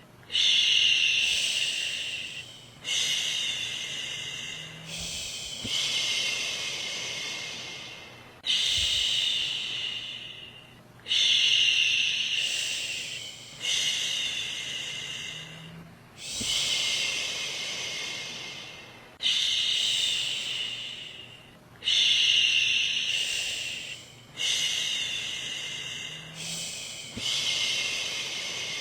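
A woman shushing, a repeated "shhh" used to soothe a baby to sleep. Each shush starts sharply and tapers off, about one every two and a half to three seconds.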